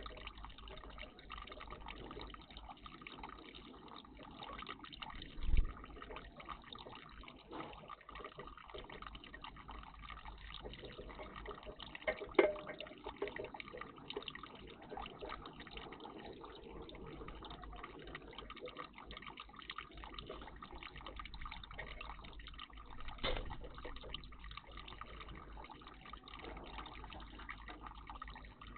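Faint steady water trickling and dripping in a garden bird bath, with three brief louder splashes spread through.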